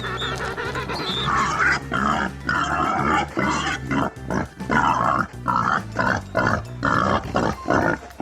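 Pigs grunting in a rapid run of short calls over background music. The grunts start about a second in and come faster towards the end.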